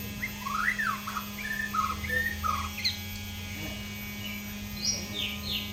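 White-rumped shama, just out of its moult, singing a varied string of short whistled notes and chirps, with a rising-then-falling sweep about half a second in and a quick run of descending notes near the end. A steady electrical hum runs underneath.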